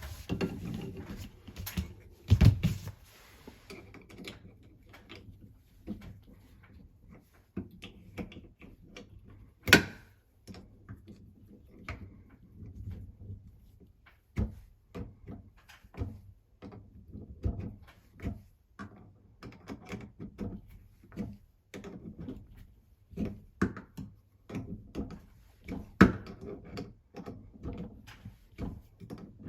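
Irregular clicks, taps and knocks of tools and faucet fittings being handled during a washing-machine tap repair, with two sharp clacks, one about ten seconds in and one near the end.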